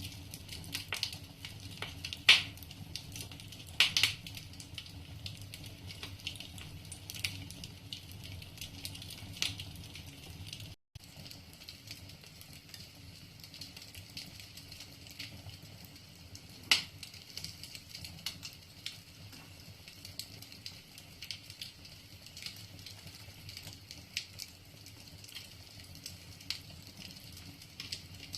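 Wood fire burning in a fireplace, crackling with irregular sharp pops from the burning logs; the loudest pops come about 2 and 4 seconds in and again around 17 seconds. The sound drops out for an instant near 11 seconds.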